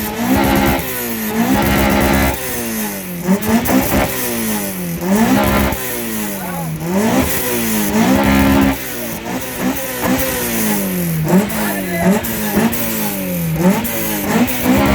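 Car engine revved hard over and over through a loud exhaust: each blip shoots up quickly and then falls back more slowly, about once a second, a dozen or more times in a row.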